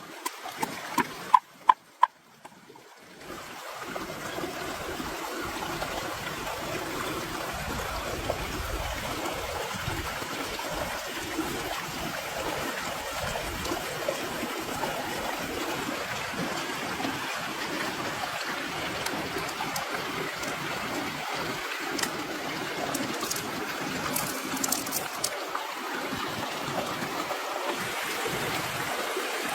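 A few sharp knocks, then a steady sound of running water that starts about three seconds in and carries on evenly.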